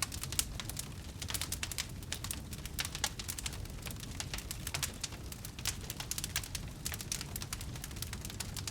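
Campfire wood burning, crackling and popping at an irregular pace over a steady low rumble of flame.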